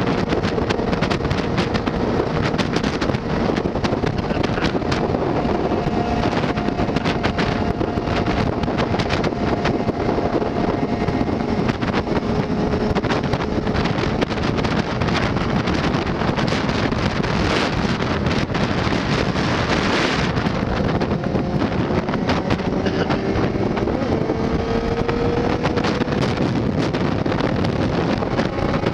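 Motorcycle riding on the open road at speed: heavy wind rushing over the microphone, with the engine's drone underneath, its pitch drifting slowly up and down.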